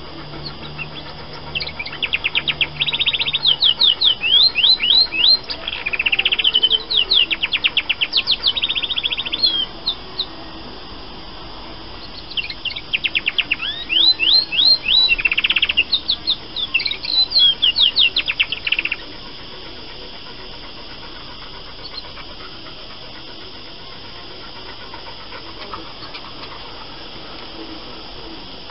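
A female domestic canary singing: two phrases of fast trills and repeated sweeping notes, separated by a short pause, that stop about two-thirds of the way through. Her song is still developing.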